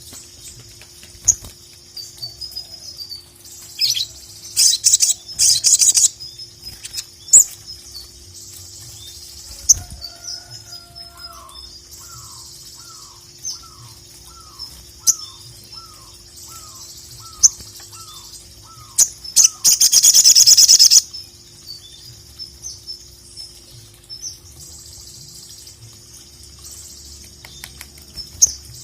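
Sogok ontong (sogon) singing in a steady stream of high-pitched chirps, with loud rapid trills a few seconds in and a long loud burst about two-thirds of the way through. In the middle there is a run of about a dozen short, lower, falling whistled notes, about two a second. A faint steady hum runs underneath.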